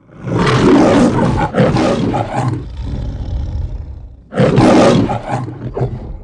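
A lion roaring: two long roars, the second after a short pause, over a low rumble.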